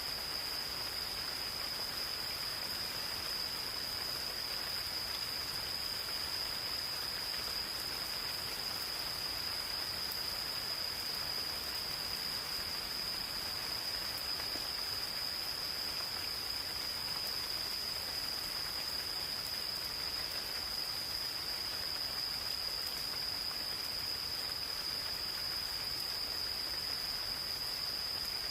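Gentle rain falling in a forest as a steady hiss, with insects giving one unbroken high trill throughout.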